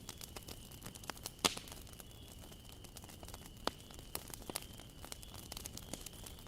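Campfire of burning wood crackling, with many small sharp pops and a louder snap about a second and a half in and another near four seconds. A faint steady high whistle runs underneath.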